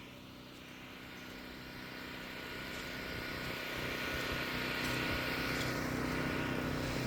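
Portable generator engine running steadily, mixed with the hiss of heavy rain, growing louder over the first few seconds and then holding.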